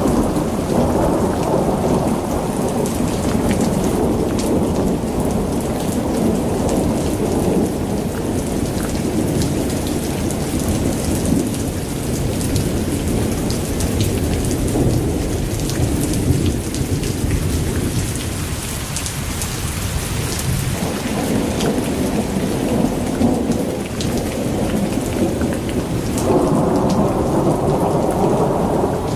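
Heavy rain pouring down in a thunderstorm: a dense, steady downpour with many drops ticking on hard surfaces over a deep low rumble. It thins a little past the middle and swells again near the end.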